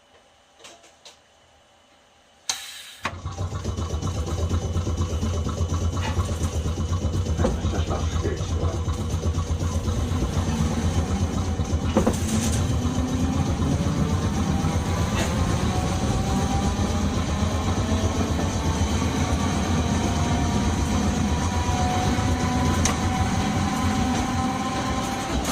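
A tram's onboard air compressor cutting in with a sharp clunk about three seconds in, then running steadily with a loud low hum and faint tones that slowly rise in pitch.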